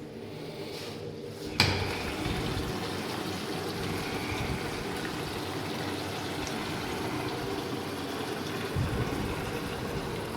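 Water running from a tap into a water container, starting with a sharp knock about a second and a half in and then a steady rush.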